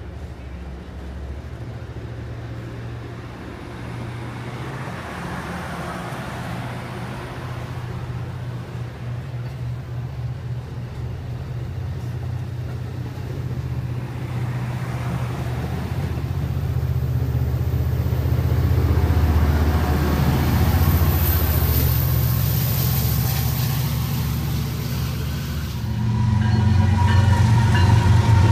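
Amtrak California passenger train moving past the platform, a steady low diesel rumble with rolling wheel noise that grows louder. About 26 seconds in, a freight train's GE diesel locomotives come by on the next track, suddenly louder and deeper.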